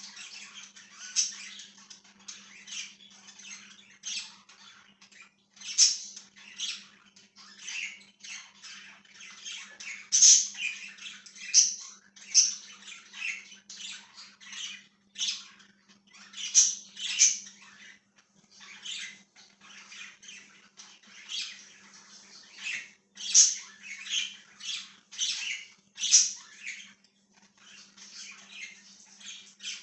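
Pet budgies (budgerigars) chirping and chattering in a continuous stream of short, sharp calls, with louder squawks now and then. Under them is a faint, steady low hum.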